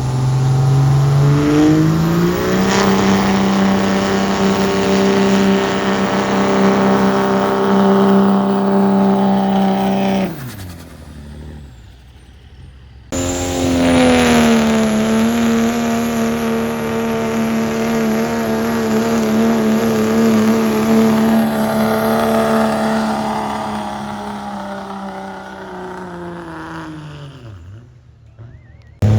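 Diesel pickup truck engine held at high, steady revs under load in a truck pull, then letting off about ten seconds in. It cuts in abruptly again at high revs about 13 seconds in, the revs slowly sagging under the sled's load before the engine drops off near the end.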